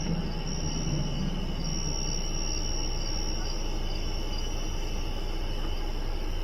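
Steady high-pitched insect trilling, stronger in the first half, over a low, steady rumble.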